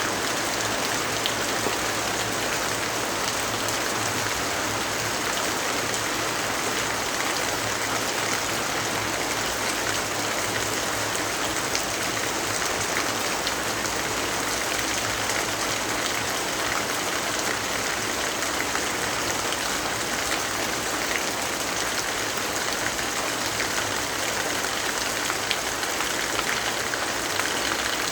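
Steady rainfall: an even hiss of rain with a few sharp drop ticks scattered through it.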